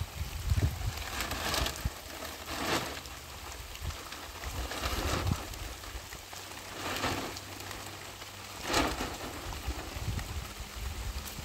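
Heavy rain falling, a steady hiss that swells louder several times, a second or two apart.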